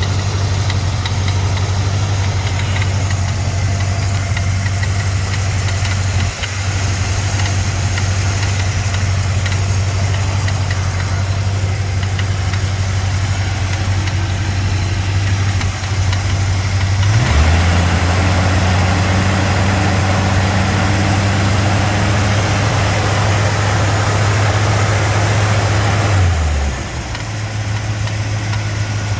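289 V8 engine idling after a cold start, with a rattle from the fan area. A bit over halfway through, the idle steps up slightly and a louder rushing noise joins for about nine seconds, then it settles back to the lower idle.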